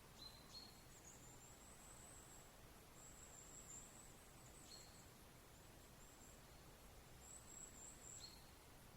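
Near silence: faint night-time background with a thin, high-pitched tone that comes and goes.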